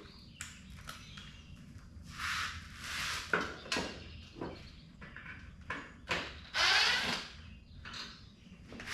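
Intermittent scraping and rubbing with a few short clicks: hands and tools working on the door's mounting hardware. The longest, loudest scrape comes about seven seconds in.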